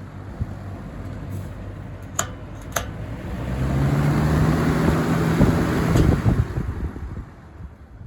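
Lasko box fan running on high, its air stream rushing over the microphone with a low motor hum. The rush swells in the middle and fades near the end. Two sharp clicks come a little after two seconds in.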